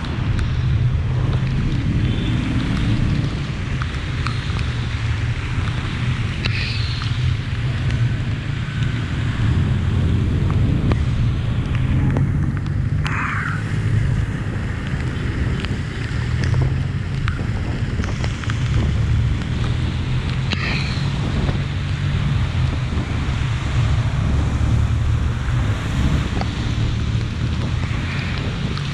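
Steady rain falling, with a low rumble of wind buffeting the microphone. A few brief high chirps sound over it about every seven seconds.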